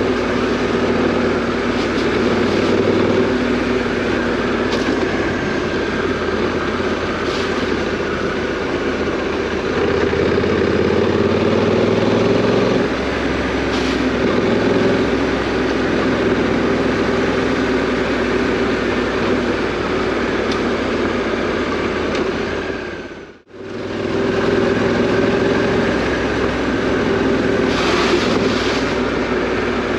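Parallel-twin adventure motorcycle engine running under way off-road. Its pitch climbs from about ten seconds in and shifts a few seconds later. The sound fades out and back in briefly about two thirds of the way through.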